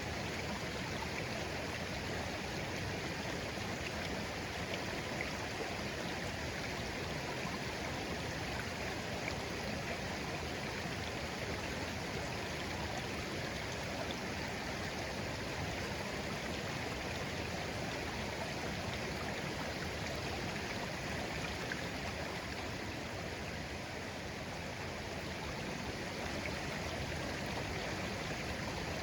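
Shallow stream flowing gently, a steady babble of water over stones.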